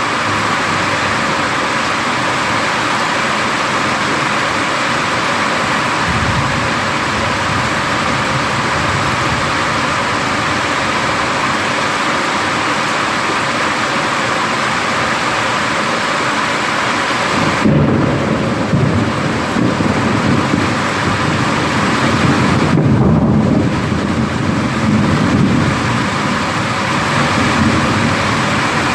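Heavy rain hissing steadily during a thunderstorm. About two-thirds of the way through, thunder starts rumbling and rolls on for several seconds, swelling again a few seconds later.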